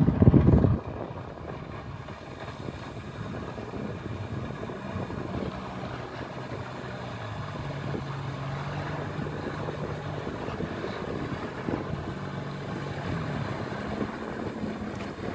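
Jet ski engine running steadily, its low hum drifting up and down in pitch, under a haze of wind and water noise. A loud rush of wind noise comes in the first second, then drops away.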